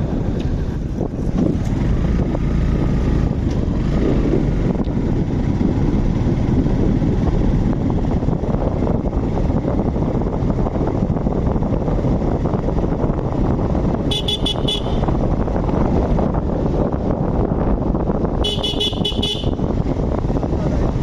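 Steady wind buffeting the microphone and road rumble while riding a bike at speed, with a vehicle horn honking twice, a short beep about two-thirds of the way through and a longer one near the end.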